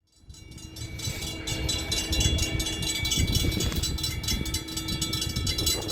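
NJ Transit train led by a PL42AC diesel locomotive approaching, a steady rumble and rattle of engine and wheels with a steady tone. The sound fades in during the first second.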